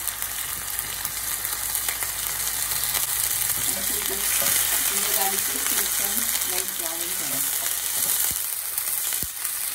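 Ginger-garlic paste and whole spices sizzling steadily in hot oil in a frying pan, stirred with a steel ladle, as the paste fries toward brown.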